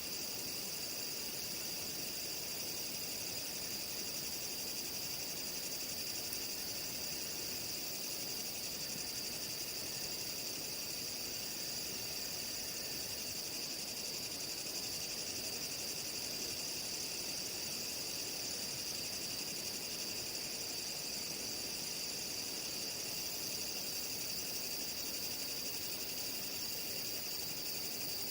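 Chorus of insects trilling without pause, a steady high-pitched drone.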